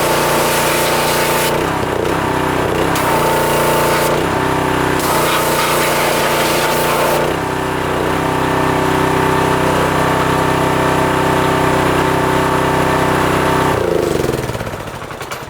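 Pressure washer engine running steadily, with the high hiss of the spray cutting in and out a few times in the first seven seconds or so. Near the end the engine winds down in pitch and stops.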